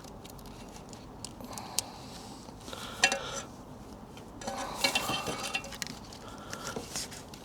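Light metallic clinks and rattles of an exhaust gasket and bolts being handled and re-seated against the catalytic converter's flange, with a sharper clatter about three seconds in and a busier run of clinks around five seconds.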